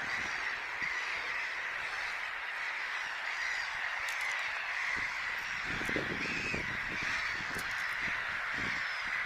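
A steady, dense chorus of many small animal calls, with soft low knocks coming about twice a second from a little past halfway.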